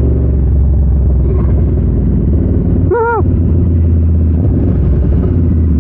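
Large V-twin engine of a KTM Super Duke 1290 R with an Austin Racing V3 150 mm exhaust, running steadily with a low, even rumble.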